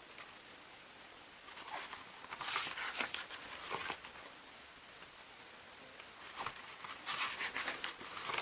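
Pages of an album's photobook being turned and handled by hand: two spells of paper rustling and sliding, the first about two seconds in, the second near the end.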